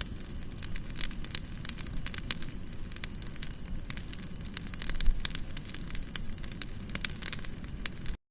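Campfire crackling, with many sharp pops over the low rumble of the burning wood. The sound cuts out abruptly right at the end.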